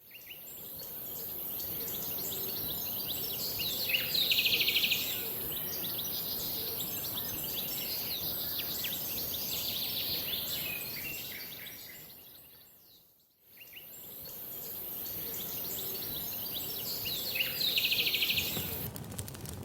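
Outdoor ambience of songbirds chirping and calling over a steady hiss, fading out about two-thirds of the way through and then starting over with the same calls, as a looped nature recording does.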